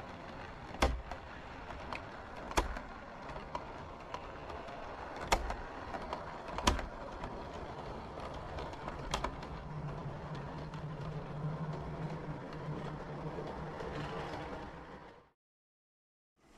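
A model train running on a model railway: a steady rolling rumble broken by five sharp clicks, with a low motor hum in the second half. The sound cuts off abruptly about a second before the end.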